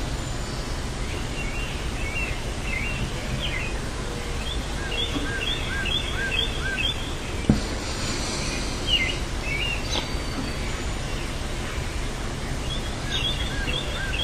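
Outdoor ambience of birds chirping and calling in short repeated series over a steady low rumble of background noise, with one brief knock about halfway through.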